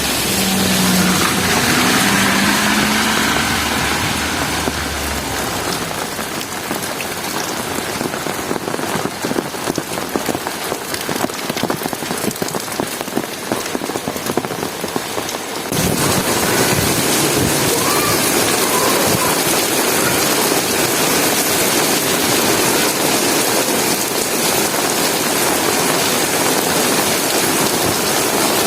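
Heavy rain falling, a dense patter of drops on hard surfaces, with a low rumble in the first few seconds. About halfway through the sound changes abruptly to a steadier, fuller downpour hiss.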